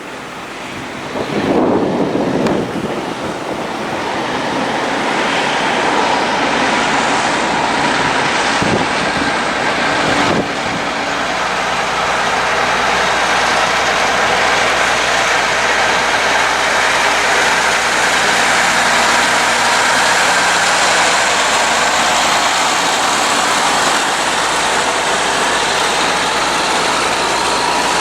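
Heavy diesel trucks running under load, a steady engine drone that builds over the first few seconds and then holds, with wind buffeting the microphone.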